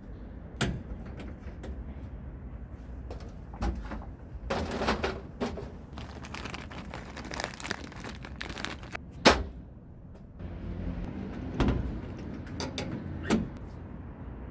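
Hand-work noises on tool parts: scattered clicks and knocks, a stretch of scraping in the middle, and one sharp knock about nine seconds in, over a low steady hum.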